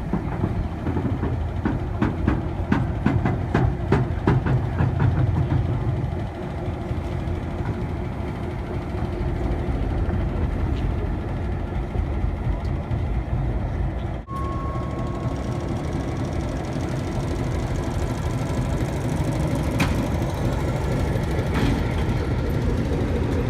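Train running with a steady low rumble. Clanks and knocks come thick in the first six seconds, and a short steady tone sounds briefly about fourteen seconds in.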